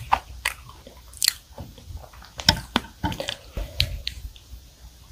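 Close-miked chewing of chocolate whipped-cream cake, with a fresh strawberry taken into the mouth near the end: irregular soft wet smacks and sharp mouth clicks.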